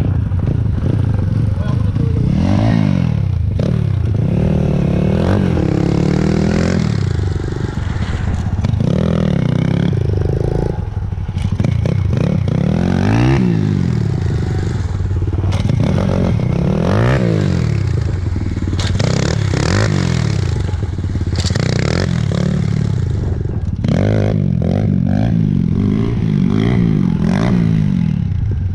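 Apollo RFN 140cc pit bike's single-cylinder four-stroke engine revving up and down again and again while being ridden, its pitch rising and falling every second or two.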